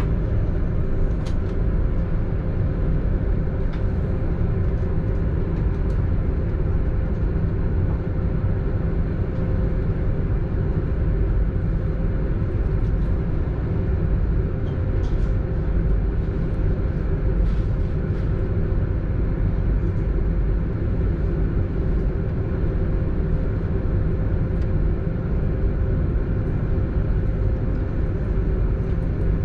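Belgian Railways AM96 electric multiple unit running: a steady low rumble with a steady hum and a few faint clicks.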